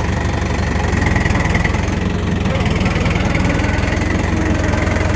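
Farm tractor engine running steadily, a low even hum with a regular pulse, loud.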